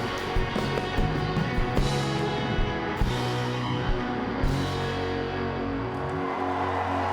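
Live rock band playing an instrumental passage with drums and guitar; the drumming stops about four and a half seconds in and a held chord rings on, and near the end the crowd begins to cheer.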